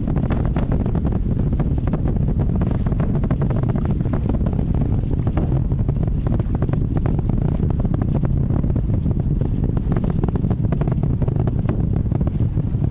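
Space Launch System rocket in powered ascent: a steady deep roar from its solid rocket boosters and RS-25 engines, with dense crackling throughout.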